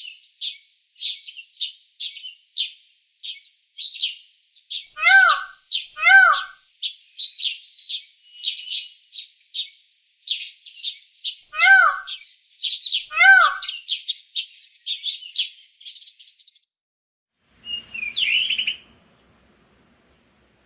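Birds chirping: a fast, steady run of short high chirps, broken by louder, sharper calls that come in two pairs about a second apart. The chirping stops near the end, leaving one brief call.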